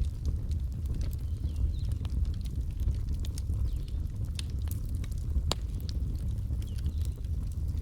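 Wood fire crackling: irregular sharp pops and snaps over a steady low rumble, with one louder pop about five and a half seconds in.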